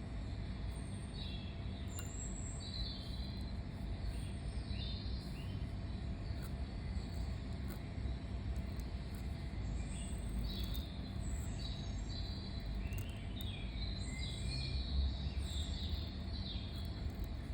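Songbirds chirping in short, scattered phrases, busiest early on and again in the second half, over a steady low rumble of outdoor background noise.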